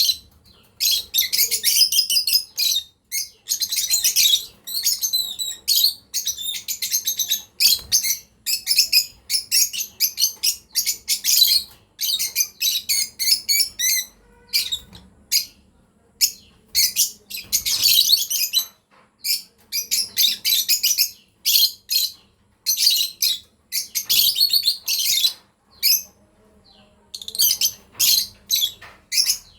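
Lovebirds chirping in rapid, high-pitched twittering runs with short pauses between them.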